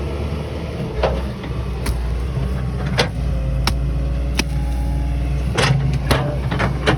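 Excavator's diesel engine running steadily, with about eight sharp knocks or clanks at irregular intervals.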